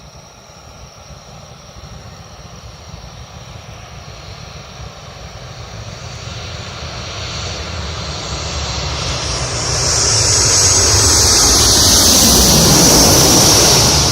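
Airplane passing low overhead: its engine noise builds steadily from faint to very loud, with a high whine on top, and peaks near the end.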